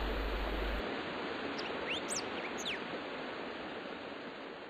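A few short bird chirps, some sliding up and one sliding down, over a steady background hiss of outdoor ambience that fades out near the end.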